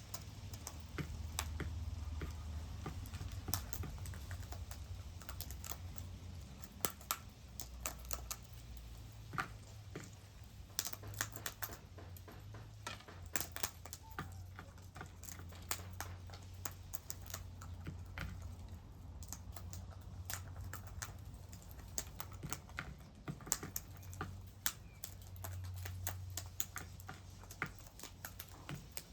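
Irregular light clicks and taps, several a second in clusters, over a steady low rumble.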